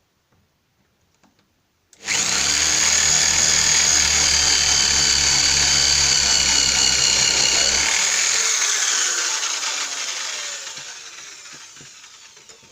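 Power drill boring into a wooden door frame to cut the recess for a deadlock's bolt. It starts suddenly about two seconds in, runs steadily for about six seconds, then spins down with falling pitch over the last few seconds.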